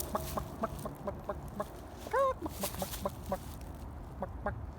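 Chicken clucking in a string of short clucks, with one louder, drawn-out squawk a little over two seconds in, played as an example of a bird call.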